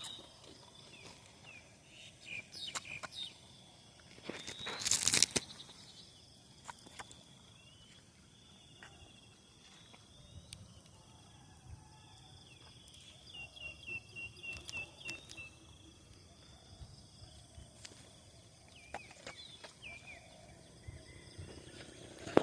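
Outdoor ambience with birds chirping and a steady high insect drone, broken by one loud burst of noise about five seconds in.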